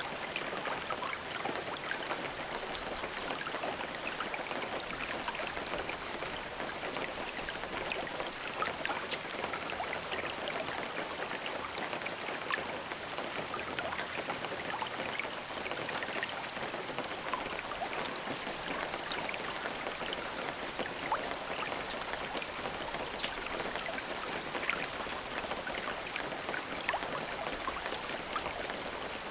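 Steady rain falling, an even hiss dotted with many separate drop ticks, with no thunder.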